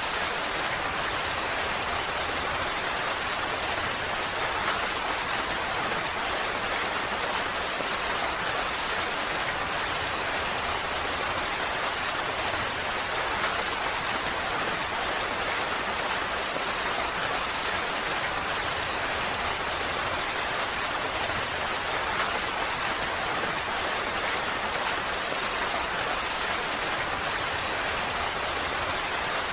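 Steady rain falling, an even hiss of many drops with faint scattered drop ticks and no change in strength.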